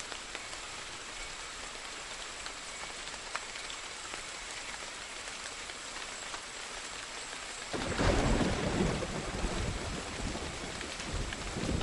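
Steady rain falling, with a few single drops ticking, and a rumble of thunder breaking in about eight seconds in and rolling on, swelling again near the end.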